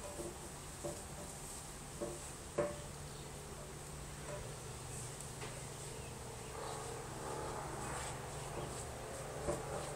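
A steady low hum from the sky, a weird drone of unknown source, with a few faint knocks over it.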